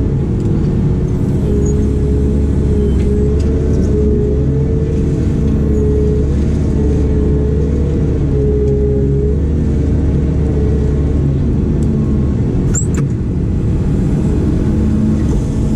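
Diesel engine of heavy construction machinery running steadily, with a wavering whine riding above the low engine note. There is one brief sharp click about thirteen seconds in.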